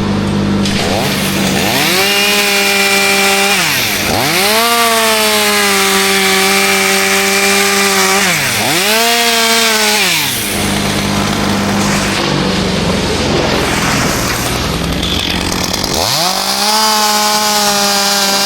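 Chainsaw revving up to full speed and holding, then dropping back, four times, with a steady idle between.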